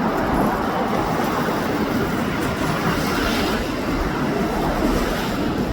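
Strong wind blowing and buffeting the microphone: a steady, loud rushing noise with an uneven low rumble.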